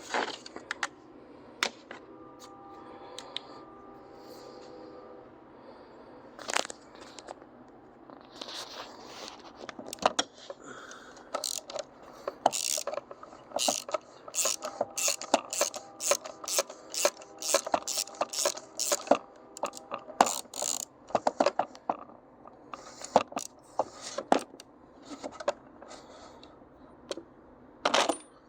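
Metal hand tools, socket and extension, clinking and scraping while work goes on under the hood, with a dense run of quick sharp clicks through the middle of the stretch.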